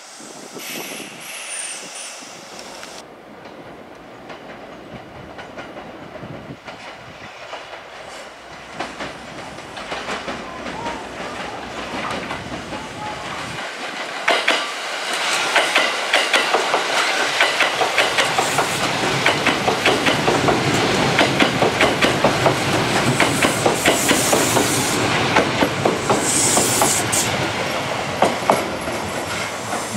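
Kintetsu Urban Liner limited-express train running past, its wheels clacking over the rail joints in a rapid, even run of clicks that grows louder from about halfway as it draws close. Two short high squeals come near the end.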